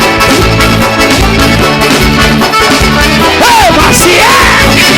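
Loud live band music playing an instrumental passage of a gospel song, with a couple of brief sung or shouted vocal calls in the second half.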